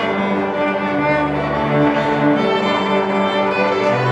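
A string orchestra of violins, cellos and double basses playing sustained, overlapping notes.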